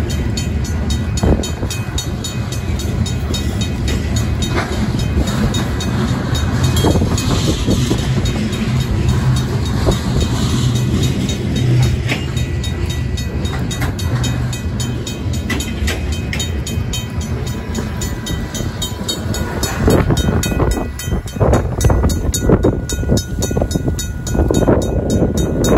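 Covered hopper cars of a slow freight train rolling over the rails through a grade crossing, with the crossing's RACO mechanical bell ringing steadily. Gusts of wind hit the microphone in the last few seconds.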